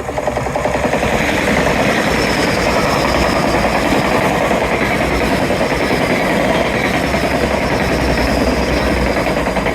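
A train passing close by on the seawall line. It rises quickly in the first second into a loud, steady rumble and rapid wheel rattle, with a thin high whine running over the top, and eases slightly near the end.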